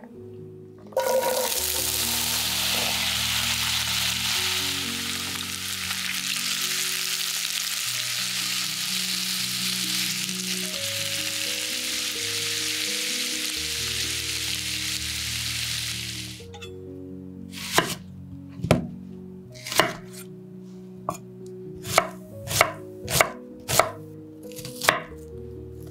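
Potato slices sizzling in hot oil in a frying pan, a loud even hiss that starts abruptly about a second in and stops after about fifteen seconds. Then a knife chopping an onion on a wooden cutting board, about ten sharp, unevenly spaced chops, over soft background music.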